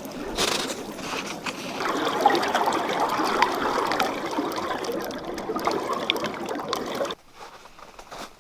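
Water running or pouring steadily with small splashes, stopping suddenly about seven seconds in.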